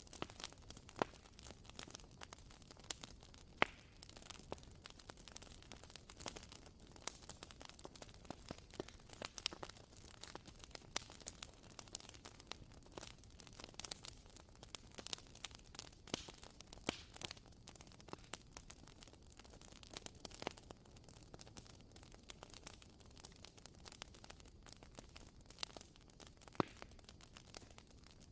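WoodWick wooden-wick candle crackling faintly, an irregular run of small pops and clicks like a tiny campfire over a soft hiss.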